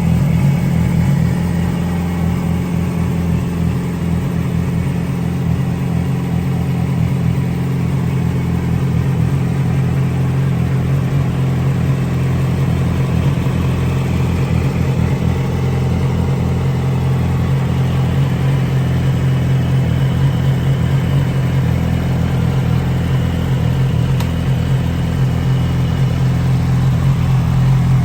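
2007 Yamaha YZF-R6's inline-four engine idling steadily through a GYTR exhaust with catalytic converter.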